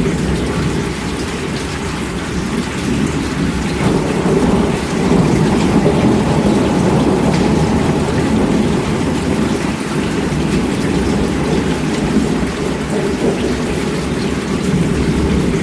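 Heavy rain falling steadily, with a continuous low rumble of thunder that swells about four seconds in.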